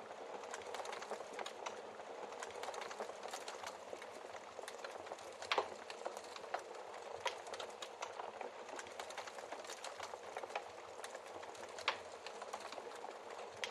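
Wood fire crackling steadily with dense small snaps, and a few louder log pops, the biggest about midway and another near the end.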